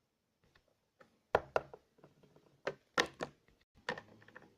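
A run of sharp knocks and clacks, about six in under three seconds, from small plastic toy figures being handled and set down on a hard surface.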